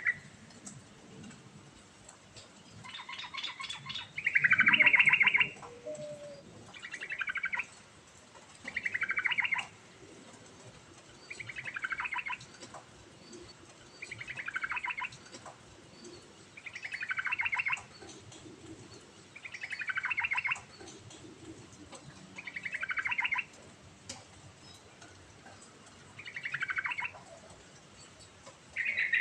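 Yellow-vented bulbul (trucuk) singing: short bubbly, warbled phrases repeated about every two and a half seconds, each dropping in pitch at its end.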